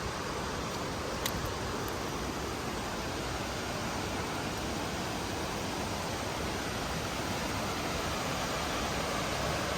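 Steady rush of water from a nearby cascading stream or waterfall, with one small click about a second in.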